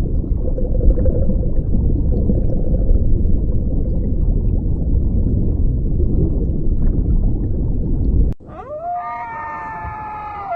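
A loud low rumbling noise that cuts off abruptly, followed by a bull elk's bugle: a high, drawn-out whistling call with many overtones that holds its pitch and then slides down.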